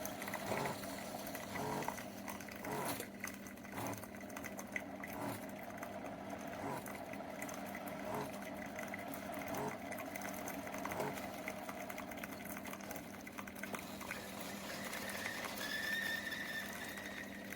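Single-serve pod coffee maker brewing: a steady pump hum with intermittent soft sputters and drips as coffee dispenses into the mug. A brief high tone sounds near the end.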